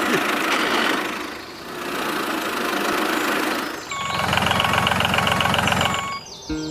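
A small engine running. There is a noisy hiss for the first few seconds, then a steady, rapid low chugging from about four seconds in that stops shortly before the end.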